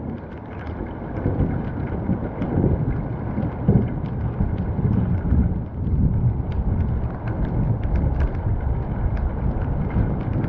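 Rainstorm: sharp ticks of single raindrops falling close by over a constant low rumble that swells and eases every second or so.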